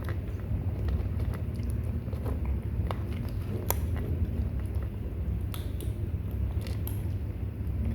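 Kittens chewing and biting food: scattered small wet clicks and crunches, over a steady low rumble.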